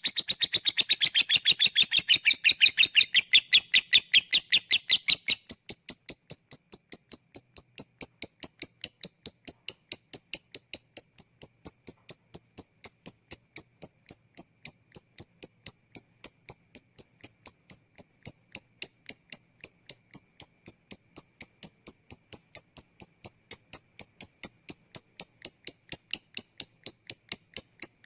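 Lovebird calling in rapid, even high-pitched ticks. For about the first five seconds the calls are a denser, fuller chatter, then they settle into a steady clicking series of about seven ticks a second. This is the 'ngetik' ticking that leads into 'ngekek' song.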